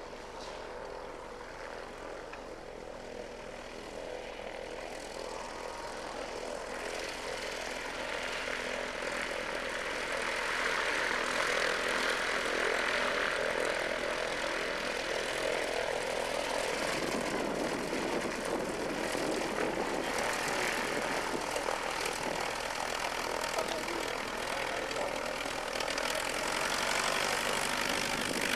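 Propeller aircraft engine, growing louder over the first ten seconds or so as the plane comes nearer, then holding steady.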